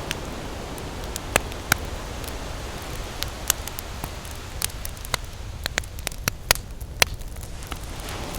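Campfire crackling, with frequent sharp pops and snaps, over a steady low wash of ocean surf that eases briefly near the end and then swells again.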